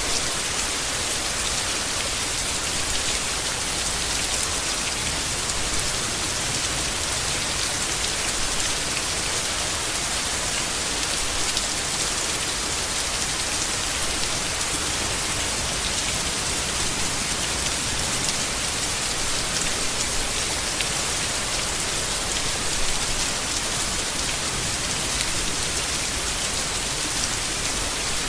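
Steady heavy rain falling on leaves and foliage, a dense even hiss with the patter of individual drops.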